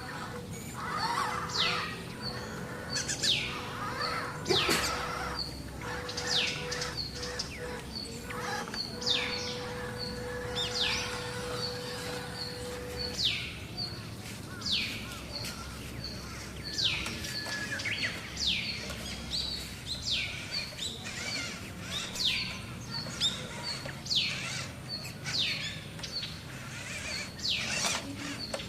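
Wild birds calling outdoors: repeated sharp downward-sweeping calls every second or two, over a regular short high note about twice a second. A faint steady hum runs under the calls and stops about halfway through.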